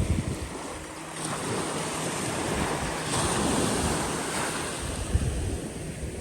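Small waves washing onto a bay beach: one wash of surf swells up about a second in and fades away, with wind buffeting the microphone near the start and end.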